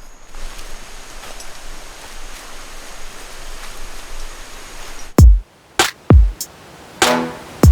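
Steady rush of falling water for about five seconds, then it cuts off and background music starts with deep electronic kick drums.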